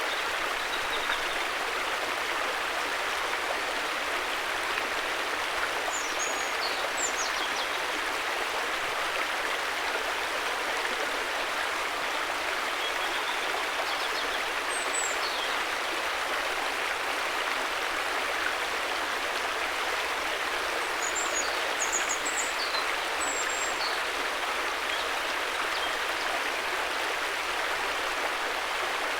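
River water flowing steadily, an even rushing hiss with no pauses. A few faint, short high chirps come over it now and then.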